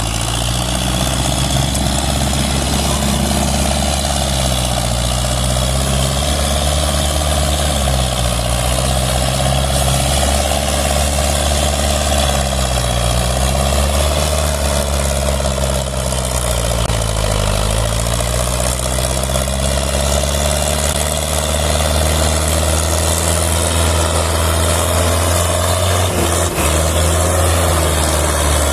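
Tractor diesel engine running hard under heavy load, its pitch sagging and recovering several times as it strains to pull an overloaded trolley.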